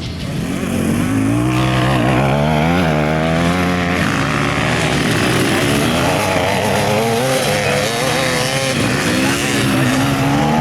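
Motorcycle engine running under way, its note rising and falling repeatedly as the revs change.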